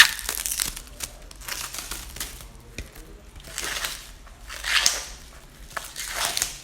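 Packaging wrap being handled and crinkled in several short rustling bursts, as layers of wrapping are pulled off a new exhaust muffler.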